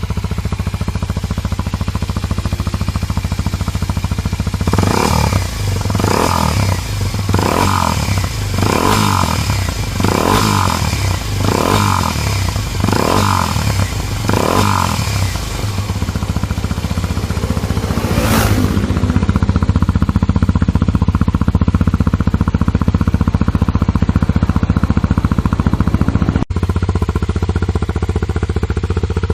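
Kawasaki Ninja 250SL single-cylinder engine running through a WR'S slip-on exhaust silencer: it idles, then gets eight quick throttle blips about a second and a half apart, then runs steadily and a little louder after a brief rising rev.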